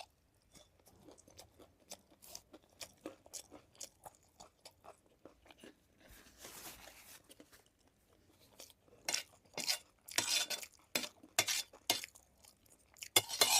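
A person chewing food close to the microphone, with wet mouth clicks and crunchy bites. The chewing gets louder and crunchier in the second half.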